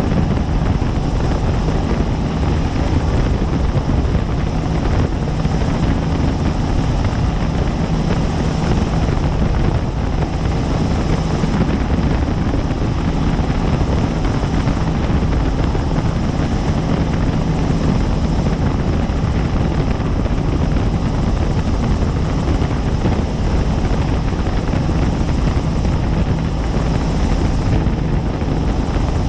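Helicopter in steady cruising flight: continuous rotor and turbine noise with a deep, unchanging throb.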